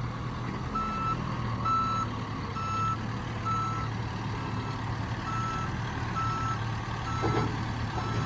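Backup alarm on a John Deere 310SK backhoe sounding short, evenly spaced beeps, about one a second, starting about a second in, while the machine reverses. Its diesel engine runs steadily underneath.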